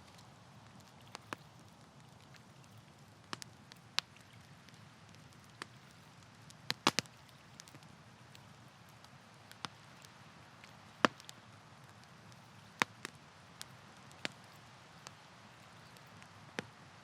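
Campfire wood crackling: irregular sharp pops and snaps over a low, steady background. A quick run of three loud pops comes a little before the middle, and the loudest single snap comes soon after.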